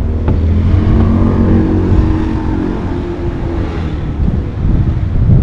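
A motor vehicle's engine running close by as it passes, with a low rumble and a pitch that rises slightly about a second in and then holds, while the rush of noise swells and fades midway.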